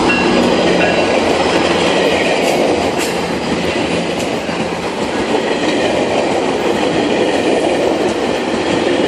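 GO Transit commuter train rolling along the track at close range: a loud, steady rumble of steel wheels on rail with some clicking over the rail joints.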